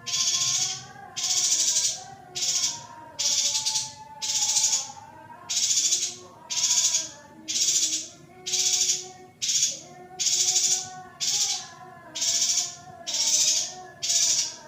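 Female yuhina giving harsh, buzzing calls repeated about once a second, each roughly half a second long, over a lower wavering warble. The recording is used to stir male yuhinas into breeding condition.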